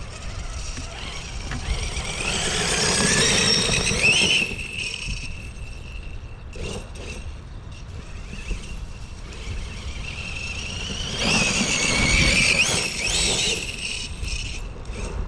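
Large homemade 12S RC monster truck with a Hobbywing Max4 brushless setup, its motor and drivetrain whining in two bursts of acceleration, the pitch rising and falling, about nine seconds apart. A low rumble runs underneath between the bursts.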